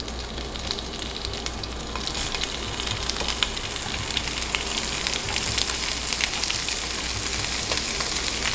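Thin slices of beef kielbasa sizzling in hot avocado oil in a frying pan, with many small crackling pops. The sizzle gets louder about two seconds in.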